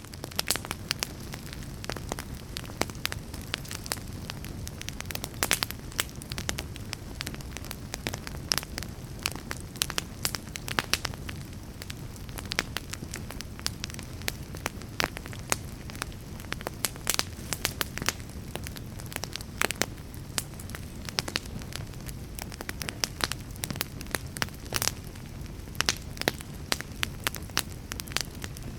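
Fire crackling: many irregular sharp pops and snaps over a steady low rumble and hiss of burning.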